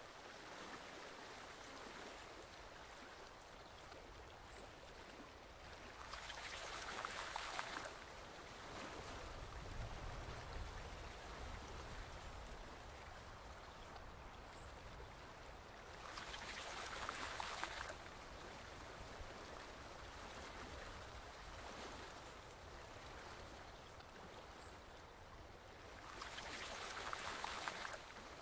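Forest stream water flowing in a steady, quiet rush that swells louder for about two seconds three times, roughly every ten seconds. A faint, very short high peep recurs at the same ten-second spacing.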